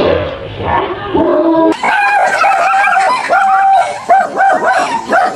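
Dogs barking and yelping in rapid, excited bursts of short, high-pitched calls. The calls run almost without a break for most of the stretch.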